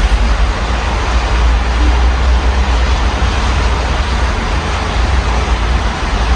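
Steady rain heard through an open window, a dense even hiss, with a constant low city rumble of traffic underneath.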